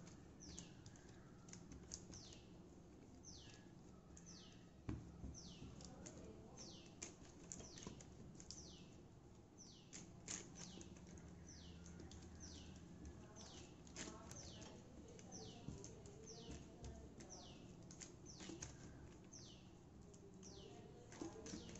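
Faint, a small bird repeating a short, high chirp that falls in pitch, a little more often than once a second, over soft rustling and a few light taps of hands pressing dough flat on a plastic sheet.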